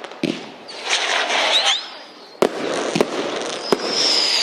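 Firework display: a spell of crackling with short whistling squeals, two sharp bangs, then a high, steady whistle from a whistling firework starting near the end.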